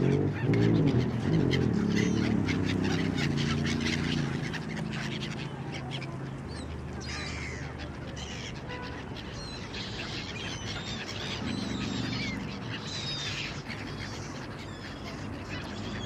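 A flock of birds calling: low pitched calls crowd together in the first few seconds and return briefly around twelve seconds, with higher chirps and squeals in between.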